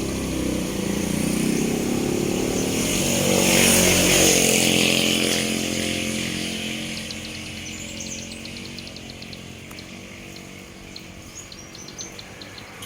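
A motor vehicle, motorcycle-like, passing: its engine is loudest about four seconds in and fades away by about halfway through. After it, a small bird gives faint, rapid high ticking and short chirps, typical of a young cemblek sawah practising its call.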